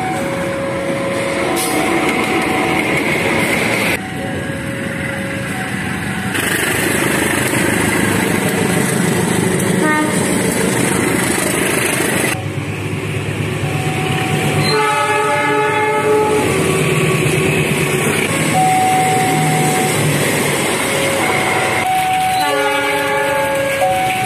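Diesel-electric locomotives hauling passenger coaches past, with the running noise of the train and its wheels on the rails. The horn sounds in short notes throughout, with a long blast about two-thirds of the way in and another near the end.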